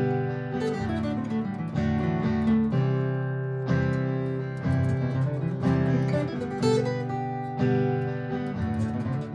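Martin GPCPA4 acoustic guitar strumming chords over a looped guitar backing, with a fresh strum roughly every second and the notes ringing on between them.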